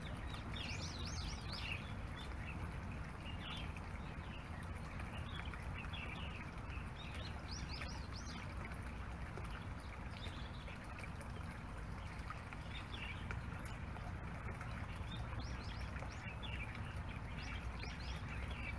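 Small birds chirping in short clusters of quick, high calls every few seconds, over a steady low background rumble.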